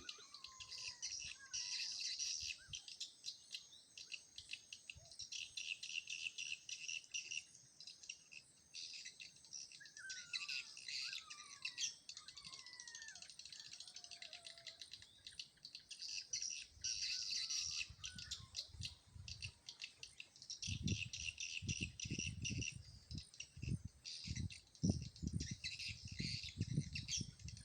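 Swiftlets twittering in a dense, continuous high chatter at a swiftlet house, with a few lower falling whistles in the middle. Over the last several seconds a series of low thumps joins in.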